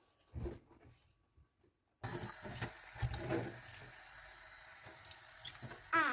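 A water tap turned on about two seconds in, water running steadily into a sink.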